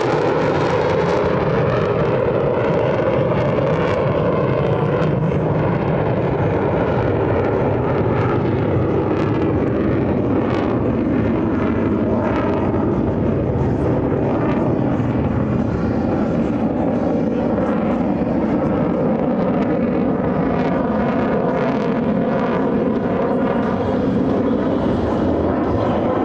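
Military fighter jet engine noise, loud and steady throughout, from an F-22 Raptor or F-35A flying a demonstration pass.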